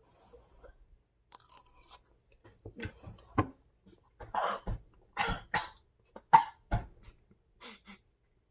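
A person chewing a mouthful of hot food, with short sharp breaths and coughs in between as the food burns the mouth.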